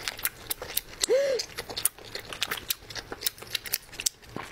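Close-miked chewing of sauced squid: a steady run of quick, sharp mouth clicks, with a short hummed 'mm' that rises and falls about a second in.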